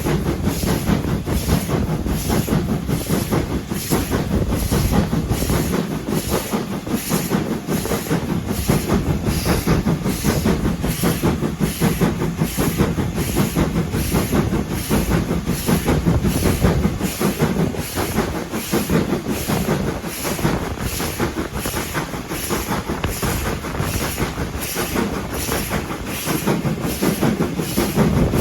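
A train running along the line, with a steady, even beat of about one and a half pulses a second and a constant rumble beneath it.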